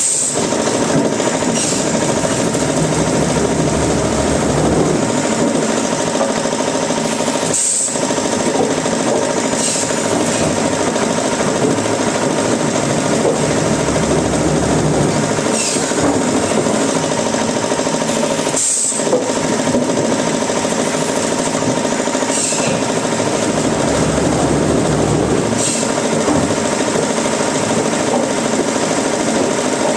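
Woodworking machinery running steadily in a wood workshop: a loud, continuous mechanical noise with a steady hum under it, dropping out for an instant about 8 and 19 seconds in.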